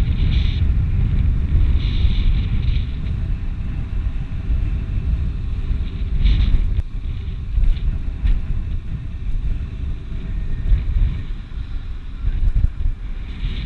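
Wind buffeting the microphone on a slope, a heavy low rumble that gusts and eases unevenly.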